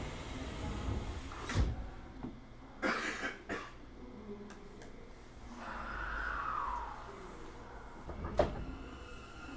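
Inside a Hanshin 1000 series commuter train car stopped at a station just after the door-closing announcement: scattered knocks and clunks, and about six seconds in a short whine that rises and falls over a low rumble.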